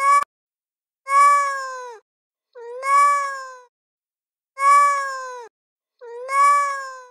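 A recorded cat meow played over and over from a phone app. One call is cut off abruptly with a click, then four identical drawn-out meows follow, one about every one and a half to two seconds.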